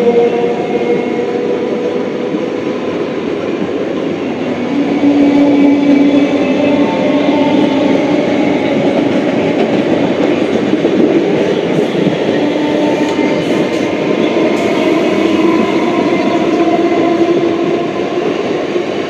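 Two electric multiple-unit local trains running side by side on parallel tracks: a steady rumble and clatter of wheels on rails, with the whine of the traction motors holding steady tones.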